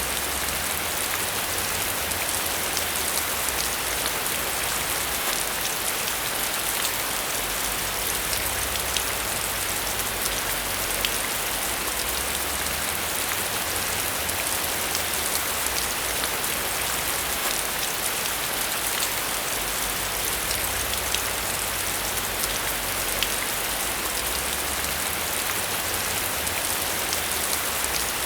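Steady rain falling, an even hiss with scattered close drop ticks and a low rumble that swells and fades every few seconds.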